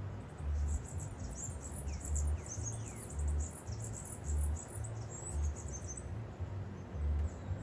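Small birds chirping rapidly with high, thin calls, with a few short downward whistles about two to three seconds in. Under them, a deep bass pulse repeats about once a second.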